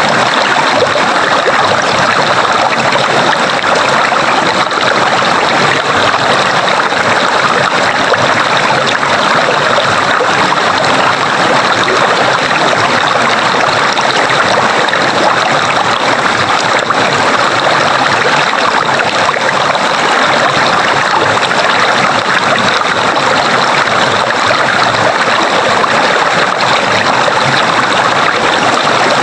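Flowing stream water, a steady rushing that holds the same level throughout.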